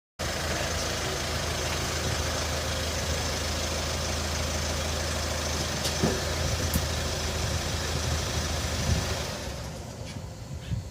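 Kia Sportage (QL) engine idling steadily, with a few light clicks about six seconds in; the sound drops in level near the end.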